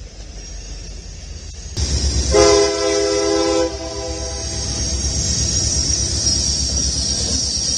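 Diesel freight locomotive passing with its engines rumbling, sounding its air horn once for about a second and a half, a steady multi-note chord. The engine rumble carries on after the horn stops.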